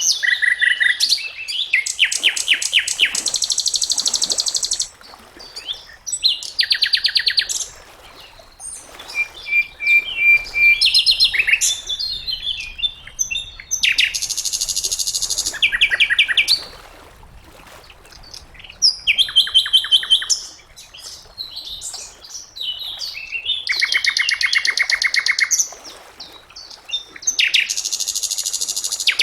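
Sikatan londo flycatcher singing: phrase after phrase of fast, rattling trills and chirps, each burst lasting a second or a few, with short pauses between.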